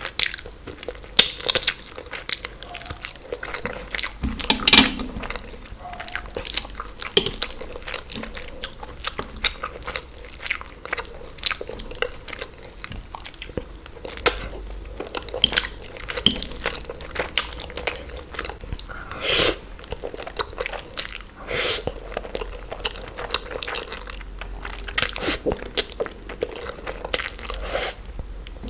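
Close-miked eating: a person chewing and biting, with irregular crisp crunches and wet mouth clicks.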